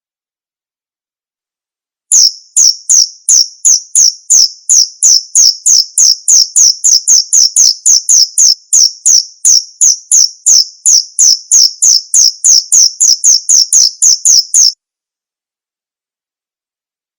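Male cricket chirping: a steady run of short, high-pitched chirps, about three a second, that starts about two seconds in and stops abruptly near the end.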